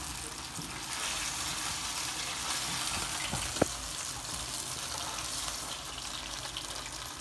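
Chicken pieces sizzling in hot oil in a non-stick frying pan over a high gas flame, a steady hiss. A single sharp clink of metal tongs against the pan about three and a half seconds in.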